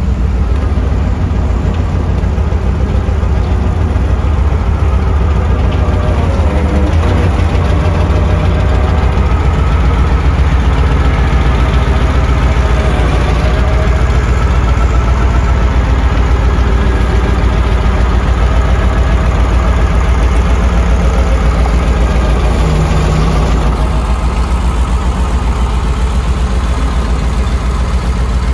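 Heavy diesel engine of construction machinery running steadily at a low, even speed, with a few slight rises and falls in engine speed.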